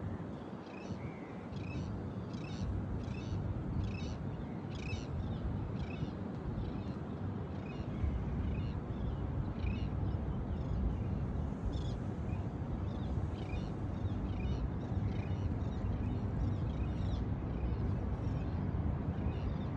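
Birds chirping in short repeated calls, about one or two a second, over a steady low rumble that grows heavier about eight seconds in.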